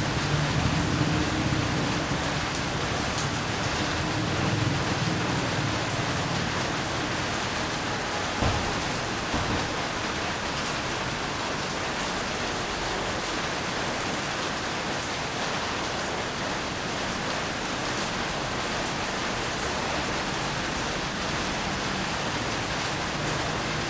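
Steady rain falling, an even hiss throughout. A low engine hum fades away over the first several seconds, and there is one light knock about eight seconds in.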